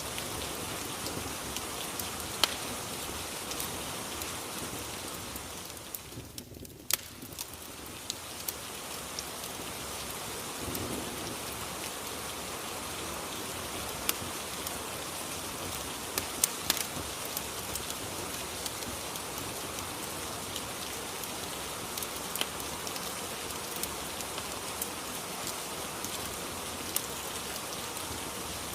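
Steady rain ambience: an even hiss of falling rain with scattered sharp clicks. The rain briefly drops in level about six seconds in.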